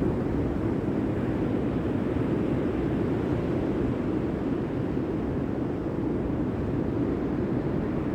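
Steady rushing seaside ambience of wind and surf, an even noise with no distinct events.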